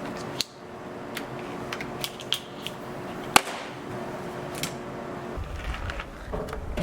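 Scattered sharp clicks and light knocks of hand tools on metal during a battery swap on a garden tractor, the sharpest click about three and a half seconds in, over a faint steady hum that stops near the end.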